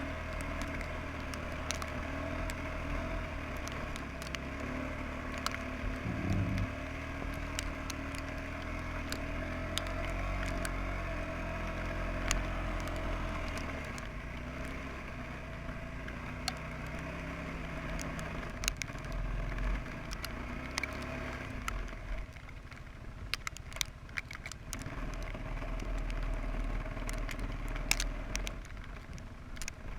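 Suzuki QuadRunner ATV engine running under load in deep snow, its pitch rising and falling as the throttle changes, with scattered sharp clicks and crackles over it.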